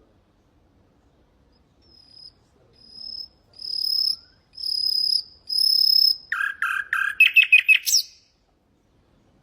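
Common nightingale singing one song phrase: a run of pure whistled notes that swell louder, then a few quick lower notes and a fast trill ending in a rising flourish. The phrase starts about two seconds in.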